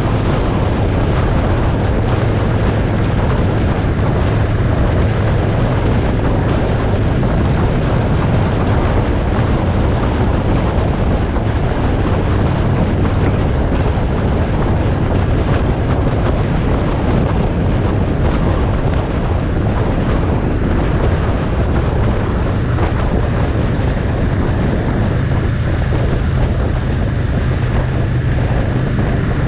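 A motorcycle riding on the road, with wind rushing over the microphone on top of a steady engine drone; the engine note rises a little near the end.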